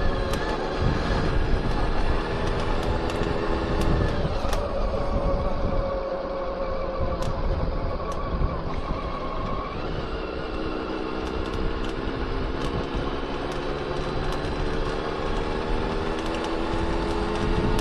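Honda CBR400RR (NC23) inline-four engine running on the move, its revs dropping about four seconds in and climbing again from about ten seconds. Sharp metallic clicks are scattered throughout: the rattle the owner traced to a worn steering stem bearing, which appears at the start of a day's ride.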